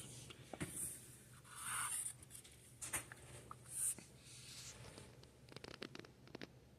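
Faint rustling and scattered light clicks of something being handled, with a few soft scuffs about a second in, near two seconds and near four seconds.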